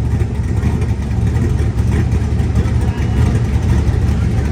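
Steady, loud low rumble of a vehicle running, with no rise or fall in pitch.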